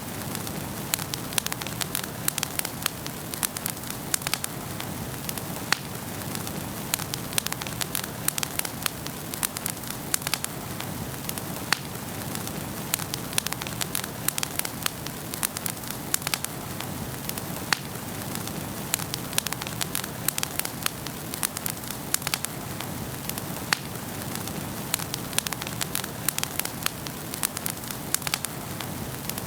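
Wood fire burning in a fireplace, with steady, irregular crackles and sharp pops over the soft hiss of the flames.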